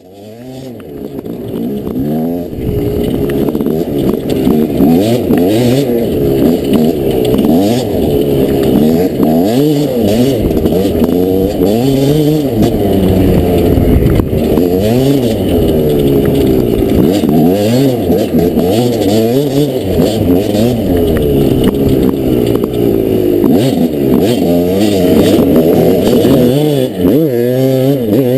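Dirt bike engine revving up and down as it rides, its pitch climbing and dropping again and again every second or so, fading in at the start and steadier near the end.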